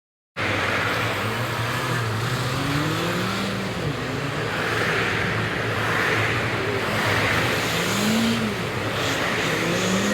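Vehicle running steadily, with engine and road noise and a few faint rising and falling tones. It starts abruptly just after the beginning and fades at the end.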